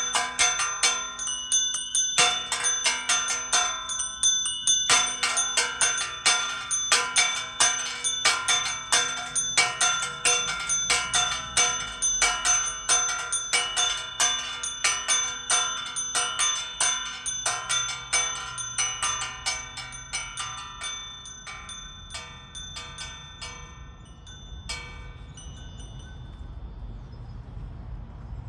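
Salta Cathedral's church bells rung in a fast peal, several strikes a second, with overlapping ringing tones. The strikes thin out toward the end; a last stroke rings away into faint low background noise.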